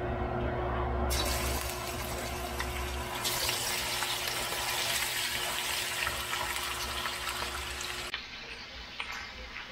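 Hot oil sizzling in a skillet as diced raw chicken is slid in; the sizzle grows louder and fuller about three seconds in and drops back about eight seconds in. A faint steady hum runs under it.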